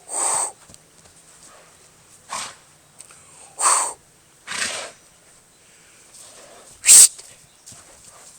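An animal making five short, breathy sounds a second or two apart, the last one the loudest.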